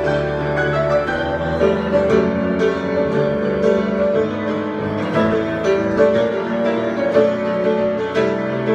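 Instrumental improvisation on piano, with sustained chords and a steady flow of new notes.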